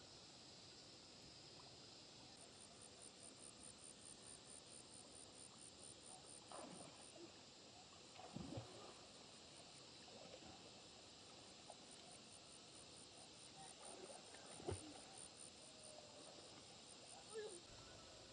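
Quiet outdoor ambience: a faint, high, rapid chirping of about five pulses a second runs through most of it, with a few brief soft knocks.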